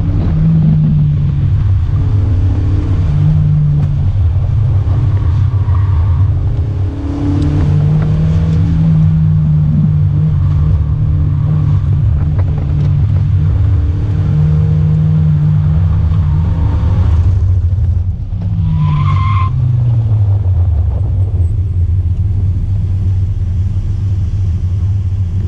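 Toyota 4A-GE 20-valve silvertop engine on individual throttle bodies, mid-mounted in an AW11 MR2, heard from inside the cabin revving hard and rising and falling with the throttle through an autocross course. Near the end the revs drop with a short tire squeal, and the engine then runs lower and steadier.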